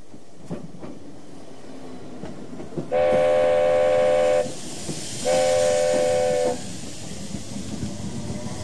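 A train whistle sounding two long, steady blasts, each a chord of several notes, about three and five seconds in, over the continuous rumble and clatter of a train.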